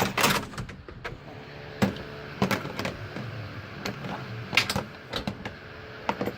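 Irregular short knocks and clinks, about six over a few seconds, as objects are picked up and set down during hands-on work.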